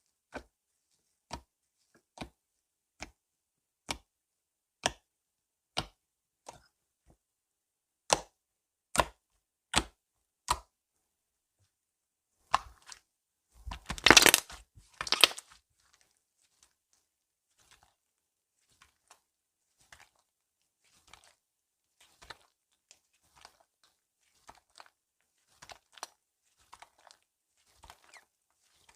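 Slime being played with by hand: sharp clicking pops about once a second, then a loud dense run of crackles and pops around the middle, then fainter scattered pops.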